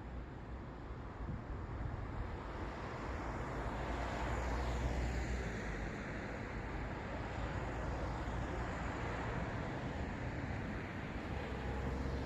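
City road traffic with a vehicle passing close by: the tyre and engine noise swells to a peak about four to five seconds in, then eases off into a steady traffic hum.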